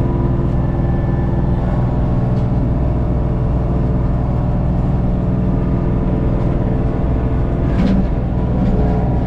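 LS MT232 compact tractor's diesel engine running steadily while driving a rotary cutter (brush hog), with a brief louder knock about eight seconds in.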